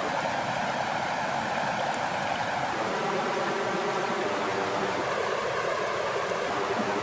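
Steady rush of flowing water, an even wash with no breaks or surges.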